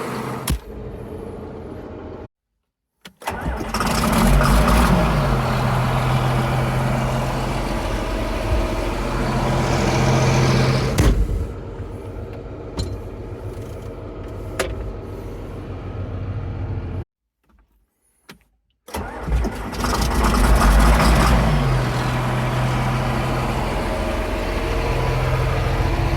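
John Deere 4955 tractor's six-cylinder diesel engine cold-starting twice: each time it fires, flares up and drops back to a steady idle.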